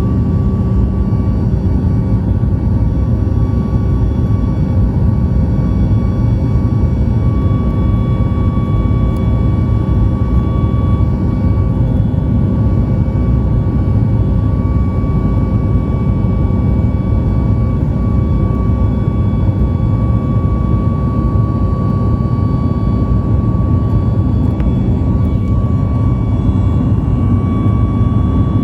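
Boeing 737-9 MAX's CFM LEAP-1B jet engines heard from inside the cabin: a steady, loud rumble with several steady whining tones over it, the engines at high thrust for takeoff or climb.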